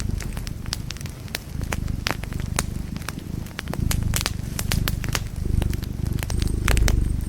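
Wood fire crackling, with frequent irregular sharp pops over a continuous low rumble of the flames that swells a few times.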